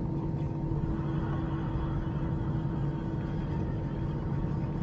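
Steady cabin hum of an Airbus A321 at the gate, a constant drone with a few steady tones and no distinct events.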